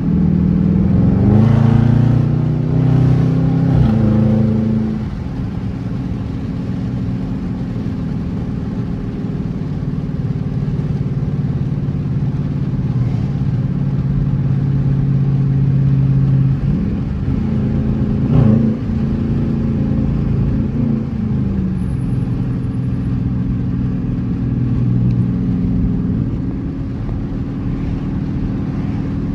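Dodge Charger R/T's V8 accelerating hard, its pitch climbing in steps through the upshifts over the first few seconds, then running steadily at speed. About two-thirds of the way through it pulls again, rising and then falling back in pitch, with a short knock in the middle of that pull.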